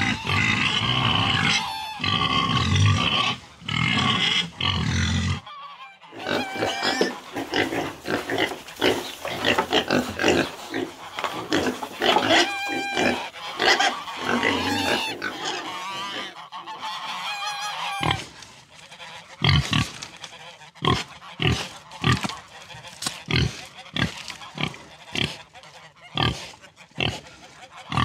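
Farm animal calls in separate clips. For the first five seconds or so, pigs are grunting and squealing. After that, a flock of domestic waterfowl call over one another, and in the last ten seconds the calls come as short, sharp, separate honks.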